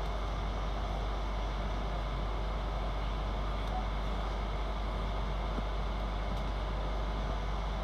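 Steady running rumble and hiss of a Sydney suburban electric train, heard from inside the carriage while it is under way.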